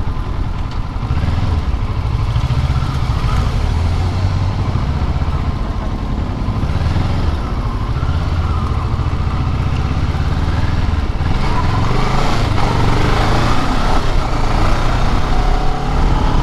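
Kawasaki Ninja 650's parallel-twin engine running as the bike is ridden along the road, growing somewhat louder in the last few seconds.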